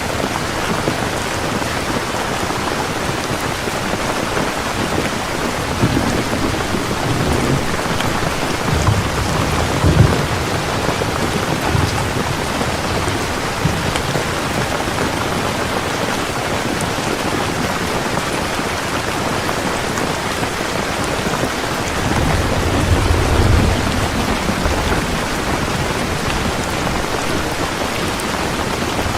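Heavy rain falling steadily, with low rumbles of thunder swelling up about six seconds in and again about twenty-two seconds in.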